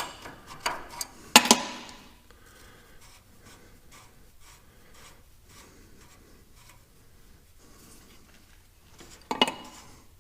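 Hand tools and metal parts clinking against the tractor: three sharp metallic clinks in the first second and a half, faint light ticking after them, and one more sharp clink near the end.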